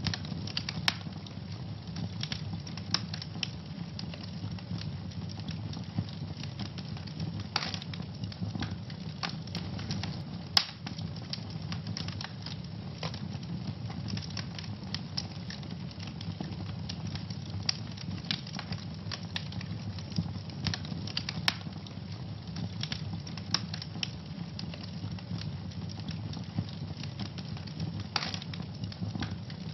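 Fireplace fire crackling, with irregular sharp pops over a steady low hiss of the flames; a few louder pops stand out, around 8 s, 11 s, 21 s and 28 s in.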